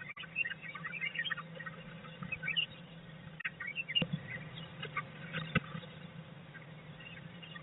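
A blue tit moving about inside a wooden nest box: small scratching, tapping and rustling as its feet and feathers shift on the box floor, with a few sharper clicks, over a low steady hum.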